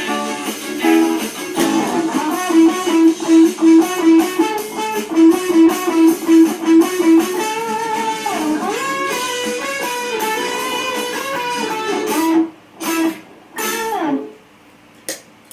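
Electric guitar playing a melody of quick repeated notes with bent notes sliding down and up, then a few final separate strokes and the music stops near the end.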